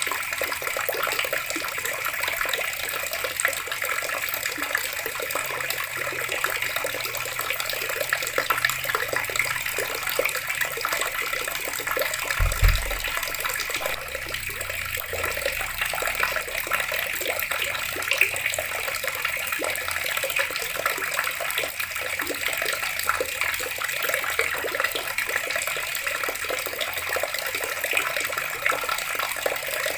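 Water running steadily from a tap and splashing, a continuous even rush, with one brief low thud about twelve seconds in.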